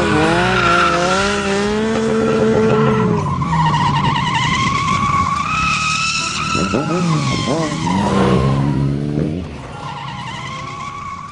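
Vehicle engines revving and changing pitch, with long wavering tire squeals as the vehicles skid hard.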